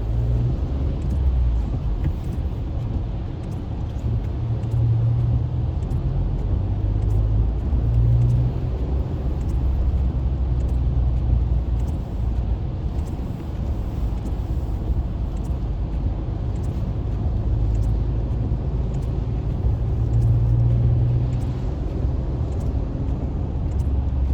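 Car cabin noise: a steady low engine and road rumble heard from inside a car driving on a rain-wet highway, with faint scattered ticks.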